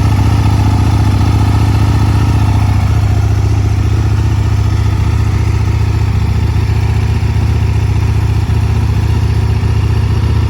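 Aprilia Tuono Racing's 998 cc V-twin motorcycle engine idling steadily, still warming up shortly after a cold start.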